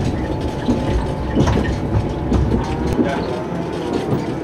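A train running along the track: a steady low rumble with scattered clicks from the wheels. The deepest rumble eases after about three seconds.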